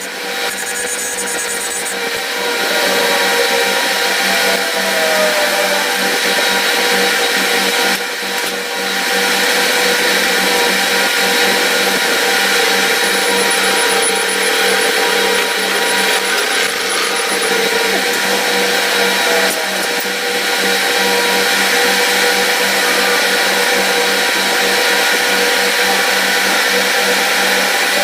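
A motor-driven machine running steadily with a constant hum and whine, and a few short squeals that slide in pitch.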